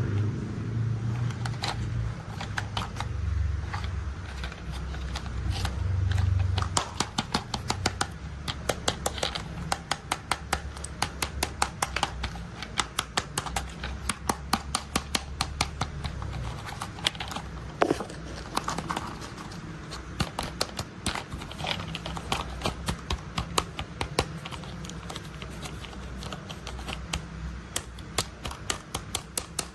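Plastic toy construction vehicles being handled: a low rumble for the first six or seven seconds, then a long run of sharp plastic clicks, a few per second.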